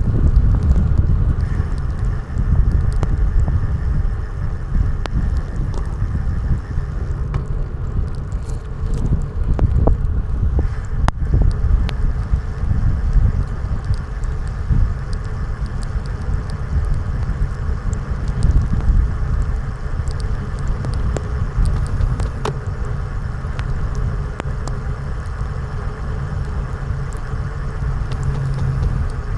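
Steady rumble of wind and road noise from a vehicle being ridden, with faint scattered ticks.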